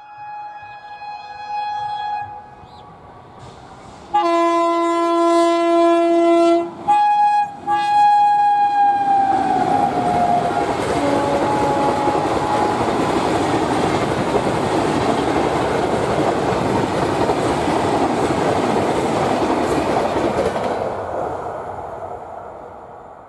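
Express train's locomotive horn: a faint call, then a long loud blast about four seconds in and two short blasts, the last one dropping in pitch as the locomotive passes. The train then rushes by at speed with steady wheel and coach noise, which fades away near the end.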